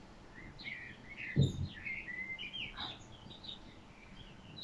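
Small birds chirping and twittering faintly, a run of short high calls throughout, with a single soft low thump about a second and a half in.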